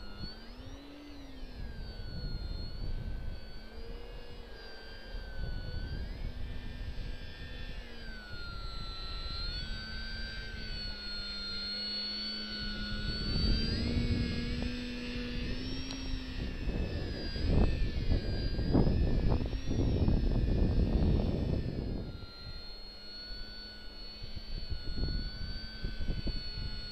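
Parkzone VisionAire RC plane's electric motor and propeller whining, the pitch rising and falling with the throttle, under gusty wind buffeting the microphone with a low rumble that is heaviest in the middle of the stretch.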